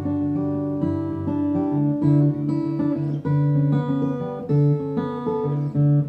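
Acoustic guitar playing an instrumental passage of picked notes over a moving bass line, with no singing.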